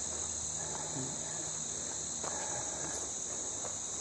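Steady, high-pitched insect chorus, trilling without a break.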